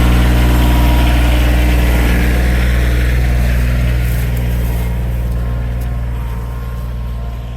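Kioti tractor's diesel engine running steadily, growing fainter over the second half.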